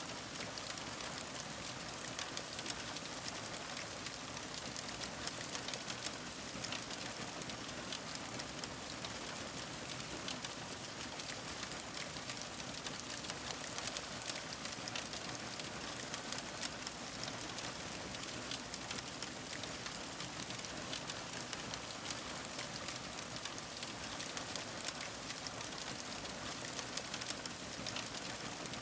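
Wood fire crackling: a steady hiss dotted with many small, sharp pops and snaps.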